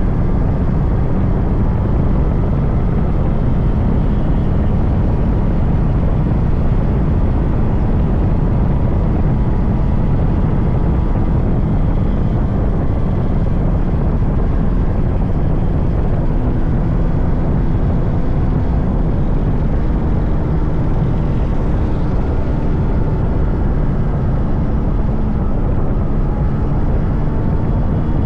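Yamaha RX100's 98cc air-cooled two-stroke single-cylinder engine running at a steady cruise while riding, under heavy wind rush on the microphone. The engine note holds level with no big revs or gear changes.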